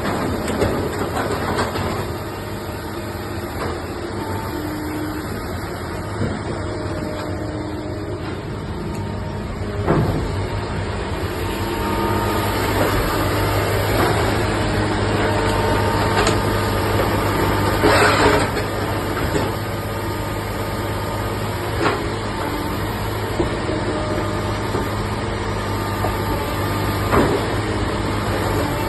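Idromec shear baler running: a steady heavy machine hum with several steady tones, deepening about ten seconds in, and sharp knocks every few seconds, the strongest about two-thirds of the way through.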